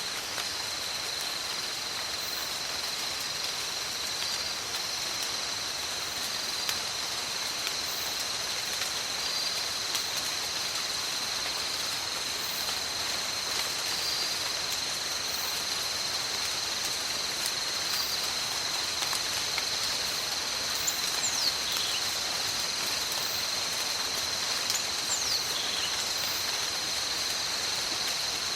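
Steady rain falling on tropical forest, with a continuous high-pitched insect drone over it. Near the end a few quick whistles slide downward in pitch.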